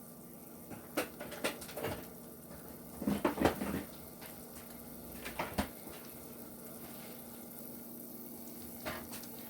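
A spoon knocking and scraping against the pan a few times, in clusters, over a faint steady sizzle of wine reducing with sautéed vegetables.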